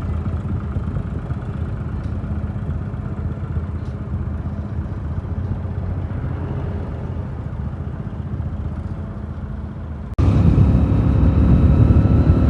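Powertrac 47 tractor's diesel engine running steadily; about ten seconds in the sound jumps abruptly louder.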